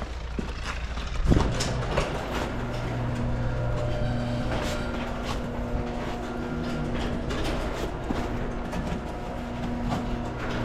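A truck running with a steady hum that comes in a couple of seconds in, over scattered knocks and clatter, the loudest knock about a second in.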